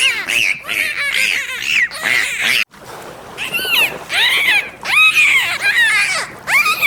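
Small wild animals calling in rapid runs of short, high, arched squeaks and chirps, in two bursts with a brief break between them.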